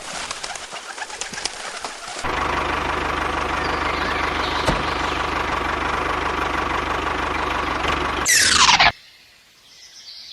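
A small engine or motor running steadily with a fast, even pulse, after about two seconds of clicking. Near the end a loud whistle slides quickly down in pitch and stops.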